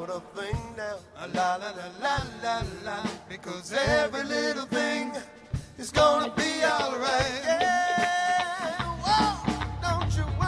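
Live band playing a reggae song: a bending lead melody line over a steady drum beat, with one long held note in the second half and heavier bass coming in near the end.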